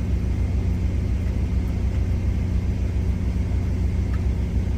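Semi-truck diesel engine idling: a steady low rumble with an even, fast low throb.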